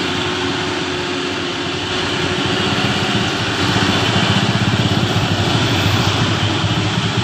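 Truck diesel engine running with a fast, even low pulsing, growing louder about three and a half seconds in as it comes under more throttle.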